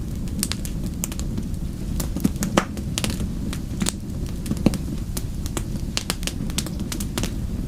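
Wood fire burning with a steady low rumble and irregular sharp crackles and pops, a few louder pops among them.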